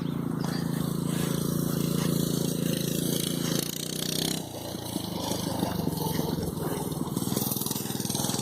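Mini bike's small engine running steadily, then its note drops and turns rougher and uneven about four seconds in.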